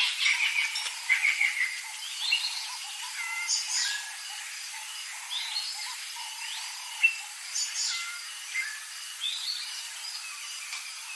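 Several birds calling: a busy run of chirps and whistled, gliding notes at first, thinning to scattered calls, over a faint steady hiss.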